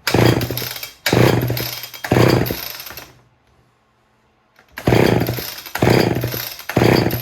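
Homelite Super XL two-stroke chainsaw being pull-started on starting fluid: six cord pulls about a second apart, with a break of about a second and a half after the third. Each pull cranks the engine with a short burst that fades away without it running on.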